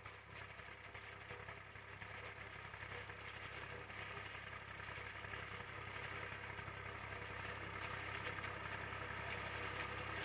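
IMT 539 tractor's diesel engine running steadily with the SIP Roto 135 forage harvester working behind it, a machinery hiss over the engine drone, growing steadily louder as it comes closer.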